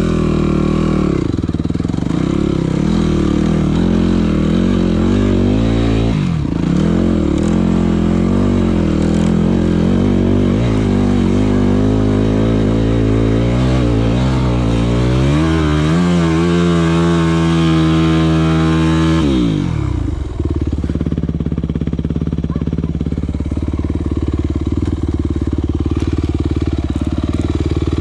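Yamaha WR250F single-cylinder four-stroke enduro engine running under changing throttle. Its revs waver, climb steadily for several seconds past the middle, then drop sharply about twenty seconds in and settle into a lower, steadier run.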